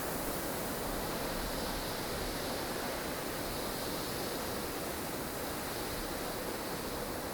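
Steady rushing wind of a blustery snowstorm, an even hiss with no gusts or breaks.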